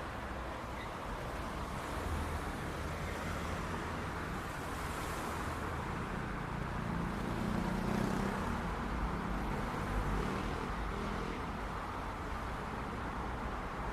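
City street traffic: a steady rumble of cars going by, with a vehicle's engine hum swelling and passing about halfway through.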